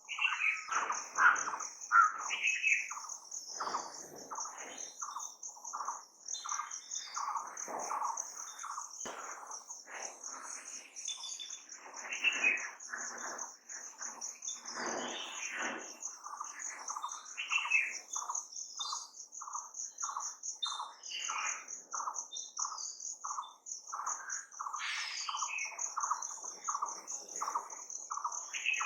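Birds chirping and calling, many short calls overlapping, over a steady high-pitched trill that never stops. In the second half one bird repeats a single note evenly, about two to three times a second.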